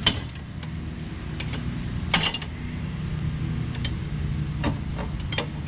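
Sharp metallic clicks and clinks of hand tools on the rear shock and U-bolt hardware, a few at a time. Under them runs the steady drone of a string trimmer's small engine.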